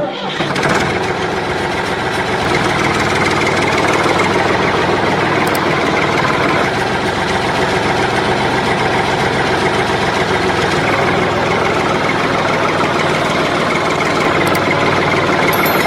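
A motor running steadily without change.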